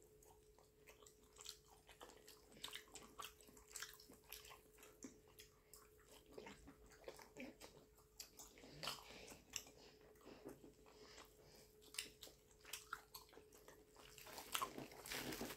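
Faint close-miked mouth sounds of someone chewing food: soft wet clicks and smacks scattered throughout. Near the end comes a louder rustle and squish as a hand pinches fufu off inside its plastic wrap.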